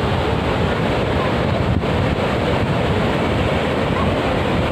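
Ocean surf washing steadily onto the beach, with wind on the microphone adding a low rumble.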